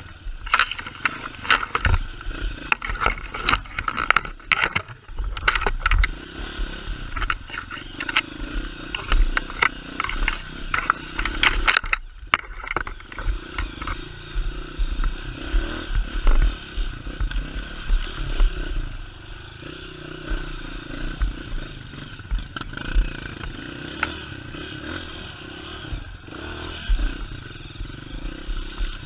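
A motor vehicle's engine running under load over rough ground, with frequent knocks and clattering, busiest in the first half.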